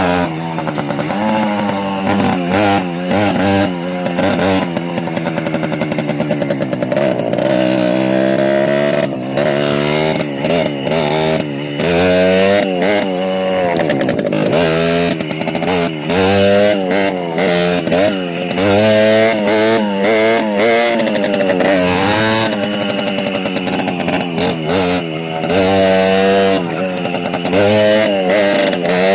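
Small motorcycle engine running under way, with a buzzing note like a chainsaw. It revs up and falls back again and again as the rider accelerates and shifts.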